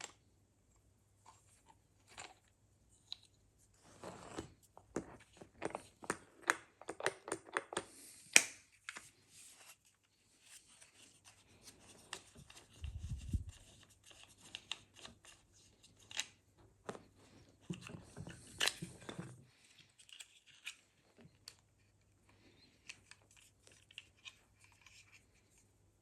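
Hand-tool and part-handling noises while a Wilo circulation pump is dismantled: irregular clicks, scrapes and rattles of metal and plastic parts, with a low thud about halfway through.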